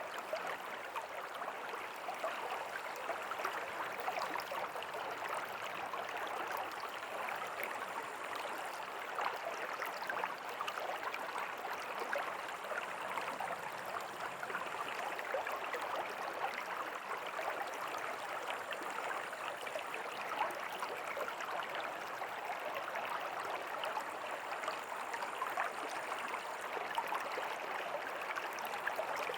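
A river's water flowing and splashing in a steady babble, with a fine crackle of small splashes throughout.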